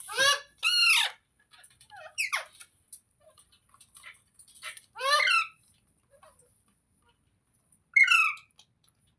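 Parrot squawking: five loud, harsh screeching calls, two close together at the start, then one every two to three seconds.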